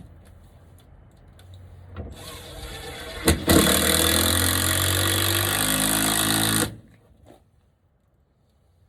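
A handheld power tool spins up and runs loud and steady for about three seconds, then cuts off suddenly. A sharp click comes just before it reaches full speed.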